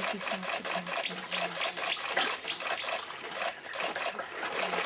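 Water splashing and sloshing in quick irregular strokes, with birds giving high, short, falling chirps.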